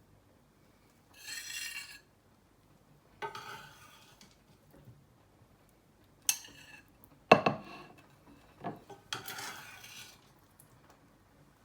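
A metal kitchen utensil stirring and scraping against cookware in several short separate strokes, with a sharp clink about seven seconds in.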